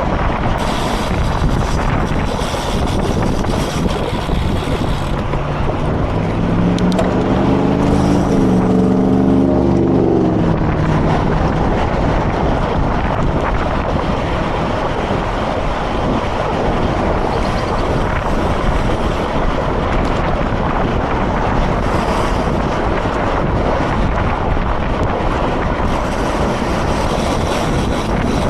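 Steady rushing wind noise on the camera microphone of a moving road bicycle. A brief low droning note swells and fades about a third of the way in.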